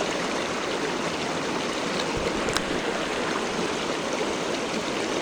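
Steady rush of flowing stream water, with one sharp click about two and a half seconds in.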